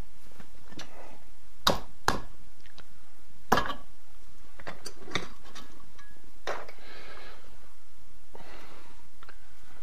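A small hammer tapping on a rod to seat a new needle assembly in an airless spray gun body: several light, irregular metallic taps and clicks.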